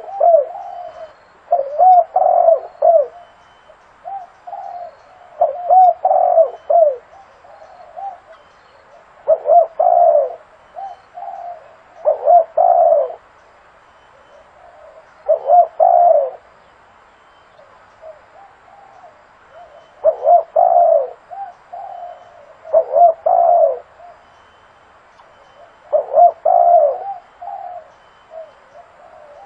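Spotted dove cooing, a short phrase of a few coo notes repeated every few seconds, with softer coos between the louder phrases.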